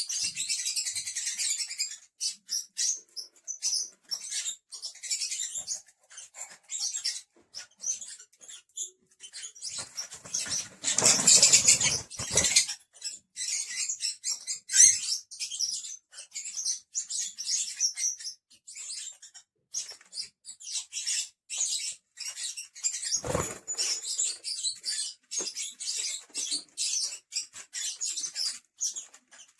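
Lovebirds chattering: a dense run of short, high-pitched chirps and squeaks. About ten seconds in, a louder rustling burst lasts two seconds or so, and a single knock comes about two-thirds of the way through.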